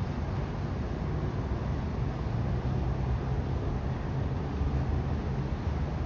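Steady low rumbling noise with no distinct events, heaviest in the deep low end.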